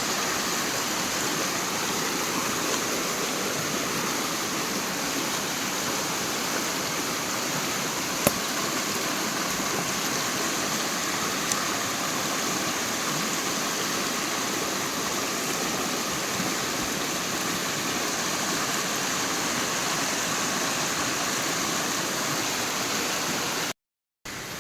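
Steady, even rush of water, with two brief ticks about eight and eleven seconds in.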